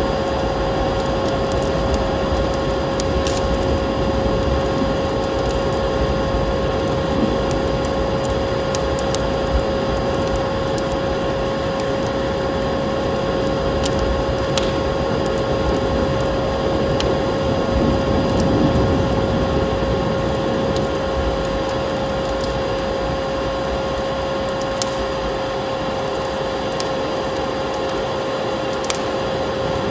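Wood fire in a fireplace crackling, with scattered sharp pops over a steady rushing noise that carries a constant hum-like tone.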